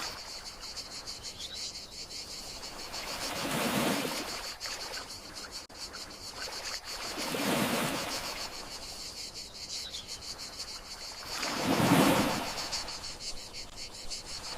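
Gentle sea waves washing in and drawing back, one swell about every four seconds, under a steady chorus of crickets chirping in fast pulses.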